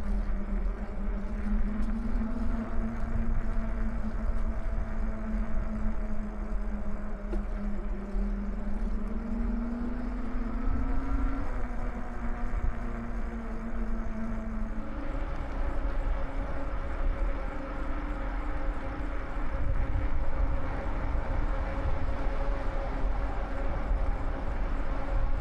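Riding noise on an e-bike: steady wind rumble on the microphone with a hum that drifts a little in pitch, the sound changing abruptly about fifteen seconds in.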